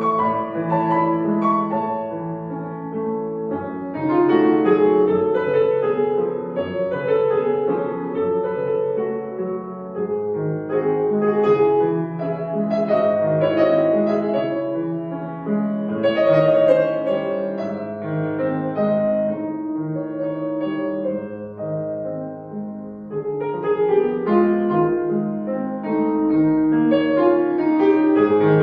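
Solo acoustic piano playing a classical piece, with continuous overlapping notes that swell and ease in loudness.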